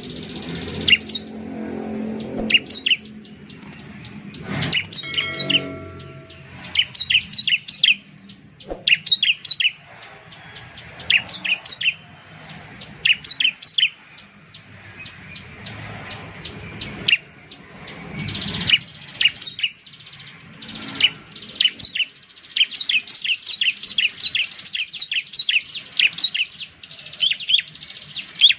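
Bar-winged prinia (ciblek) calling: rapid runs of sharp, high, down-slurred chirps in bursts a few seconds apart, turning into a longer, near-continuous run in the last ten seconds.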